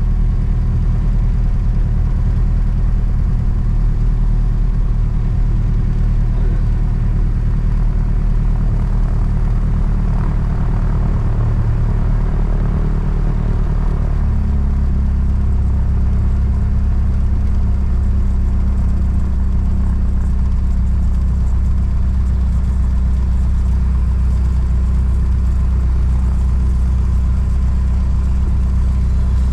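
Mooney M20J's four-cylinder Lycoming piston engine and propeller running steadily, heard from inside the cabin; its low note shifts about halfway through.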